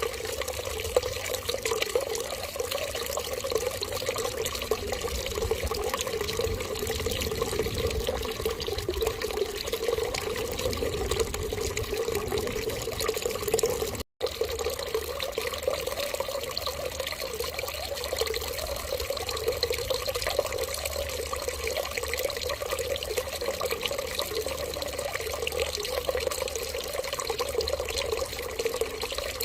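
Water running in a steady, continuous stream, with a momentary cut to silence about halfway through.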